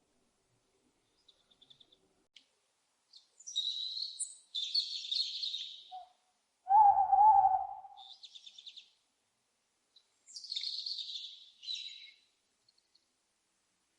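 Several bursts of high chirps and trills from small birds, and about seven seconds in one louder, lower, wavering owl call lasting about a second.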